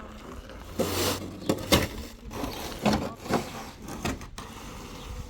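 A run of scrapes and knocks, loudest between about one and two seconds in, thinning out after about three and a half seconds.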